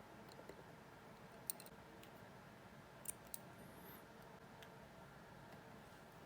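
A few faint, sharp clicks, spaced out in near silence, from small metal tools handling the parts of a Vostok Amphibia wristwatch.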